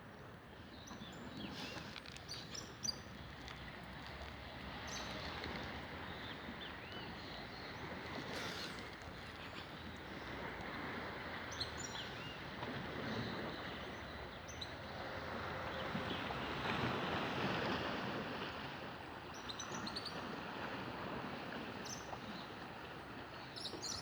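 Waves washing on a beach, a steady rush that swells to its loudest after about fifteen seconds, with short high bird chirps now and then.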